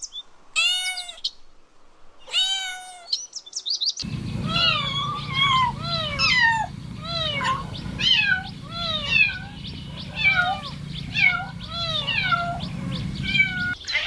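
A cat meowing twice in long, rising-then-falling meows. After that, kittens mew in quick short falling calls, about two a second, over a low steady hum.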